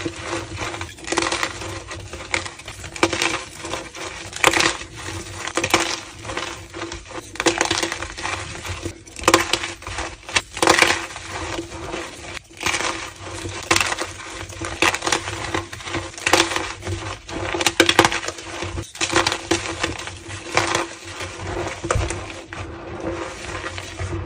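Homemade gym chalk slabs being crushed: a continuous run of irregular, crumbly crunches with a squeaky edge.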